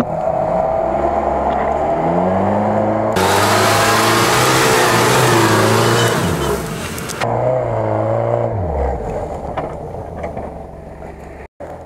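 UAZ-469 off-road jeep's engine revving under load as it climbs a steep grassy bank, its pitch rising and falling several times. A loud rushing hiss lies over it for about four seconds in the middle, and near the end the revs drop and the engine eases off.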